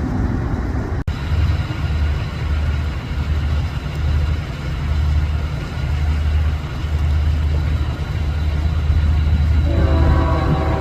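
Freight train diesel locomotives running with a heavy, pulsing low rumble. Near the end a steady chord of pitched tones joins in over it.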